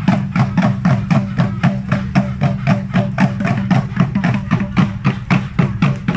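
Rhythmic percussion music: hard, sharp strikes at a steady pace of about five a second, each with a low pitched tone beneath it.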